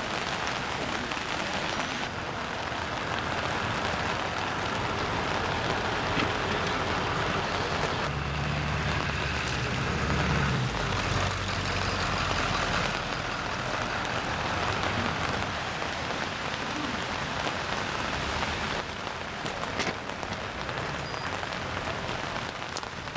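Steady rain falling and pattering on surfaces, with a low steady hum underneath for several seconds around the middle.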